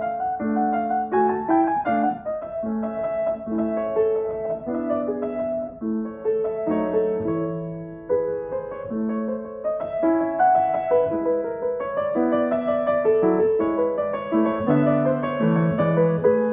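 Feurich piano being played: a continuous passage of melody notes over chords.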